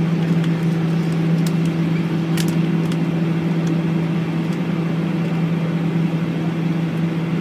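Steady drone of a Boeing 737-8 airliner heard from inside the passenger cabin: a constant low hum over a smooth rush of noise, with a few faint clicks.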